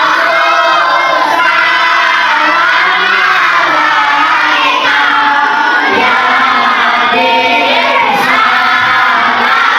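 A large group of children singing a sholawat together, loud and in unison.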